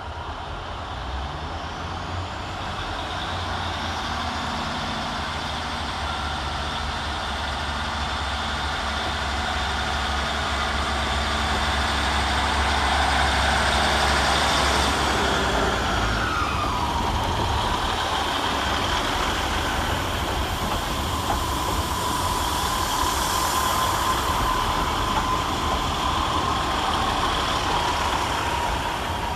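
A pair of Class 150 Sprinter diesel multiple units pulling out under power, their Cummins diesel engines rumbling. A whine drops in pitch about halfway through and then holds steady while the engine rumble fades.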